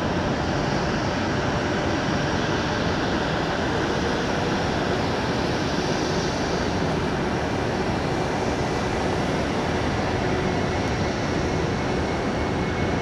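Jet airliner engines, a Southwest Boeing 737's, running steadily at takeoff power as it begins its departure roll, with a faint steady whine over the noise.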